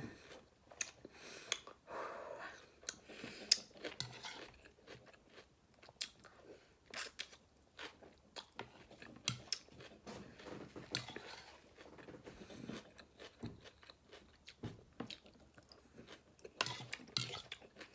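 Close-miked chewing of a mouthful of raw salad greens: irregular crisp crunches and bites.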